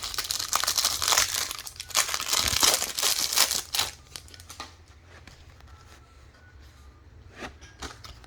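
Plastic trading-card pack wrappers crinkling and tearing as packs are opened, dense and busy for about four seconds. After that it is much quieter, with a few faint clicks of cards being handled.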